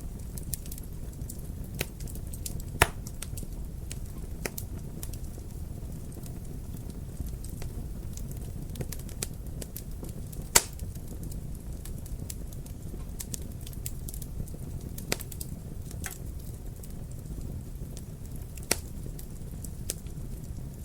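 Wood fire in a fireplace burning with a steady low rumble and scattered crackles, with sharp louder pops about three seconds in and again about halfway through.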